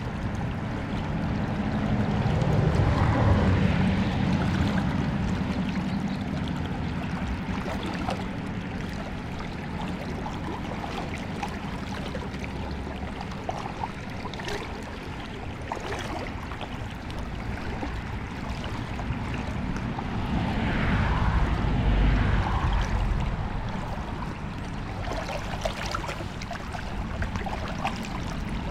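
River water rushing and gurgling steadily, with a low rumble that swells about three seconds in and again near twenty-two seconds.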